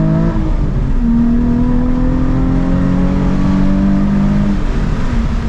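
2007 Nissan 350Z HR's V6 engine and exhaust pulling under acceleration, heard from inside the cabin, over road and tyre noise. The engine note climbs slowly, then drops in pitch about four and a half seconds in, as at an upshift.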